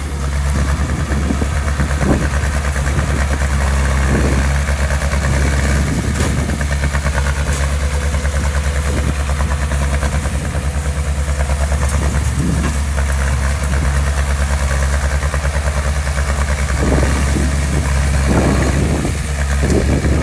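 Heavy construction machine's diesel engine running steadily at a constant speed, with a few brief knocks over it.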